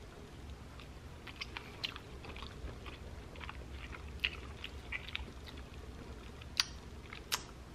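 A person chewing a mouthful of steak with blue cheese sauce: faint, wet mouth clicks and smacks, with two sharper clicks near the end.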